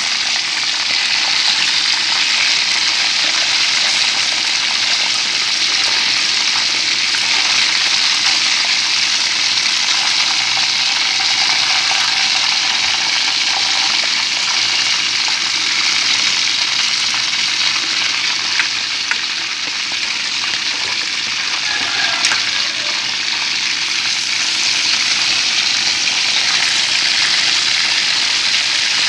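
Chicken wings frying in hot oil in a pan, a steady sizzle throughout.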